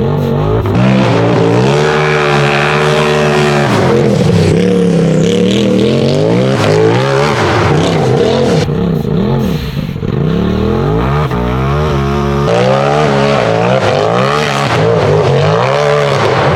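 Turbocharged Polaris RZR buggy engine revving hard under load on a hill climb. Its pitch climbs, falls and swings up and down over and over as the throttle is worked, with a short steadier stretch about two-thirds of the way through before it winds up again.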